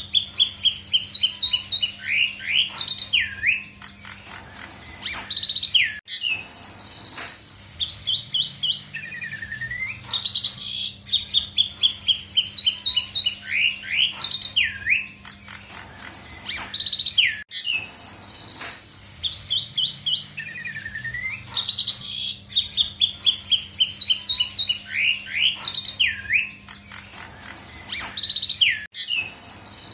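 Asian pied starling singing a varied song of rapid chirp series and whistled, sweeping notes, packed with mimicked phrases of other birds. The same sequence repeats about every eleven seconds over a steady low hum.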